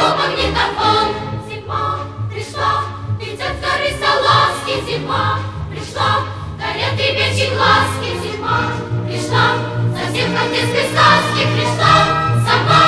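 Background music: a choir singing a festive song with a steady bass accompaniment.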